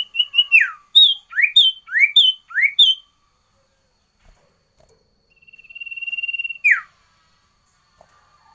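Sirtu songbird singing clear whistled notes. A few quick short notes and a falling slur open the song, then four fast rising phrases, each ending on a short held high note. After a pause of a couple of seconds comes one long steady whistle that ends in a quick downward slur.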